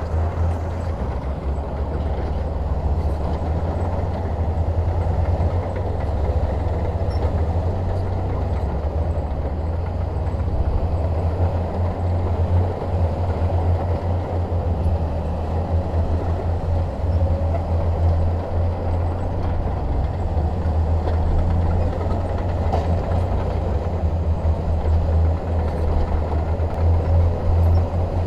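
Shantui DH17 bulldozer's diesel engine running steadily under load, a constant low rumble with little change in level.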